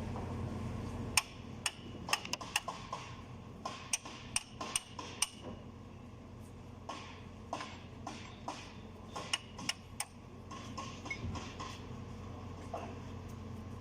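Irregular sharp metallic knocks and clinks of hand tools striking metal parts, some ringing briefly, over a steady low hum that drops about a second in.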